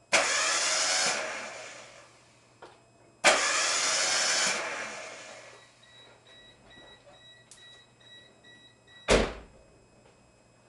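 A freshly overhauled Geo Metro engine is cranked on the starter twice, each time for about a second, turning over but not firing; the owner suspects something was left unhooked in the rebuild. A faint on-off beeping follows, then a single thump near the end.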